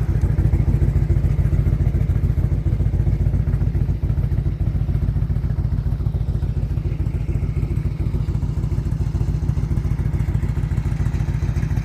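Motorcycle engine idling steadily just after being started, a low, fast, even pulsing rumble.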